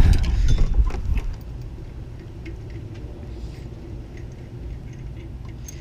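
Handling noise of tools and parts being moved, loud and rumbling for the first second or so, then quieter with a few faint light clicks.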